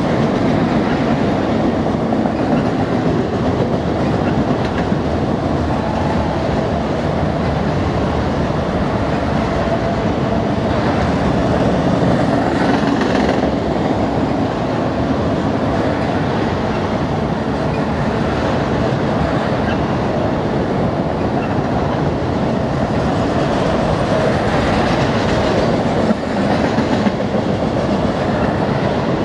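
Freight train of autorack cars rolling steadily past on the adjacent track: a continuous rumble with the clatter of steel wheels over the rail joints.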